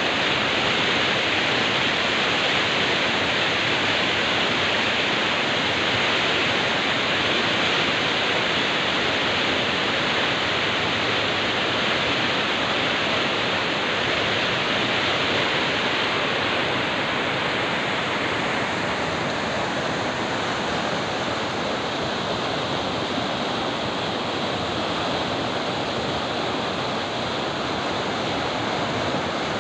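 Steady rushing of the fast-flowing Kameng River, a mountain river. The upper hiss softens slightly past the middle.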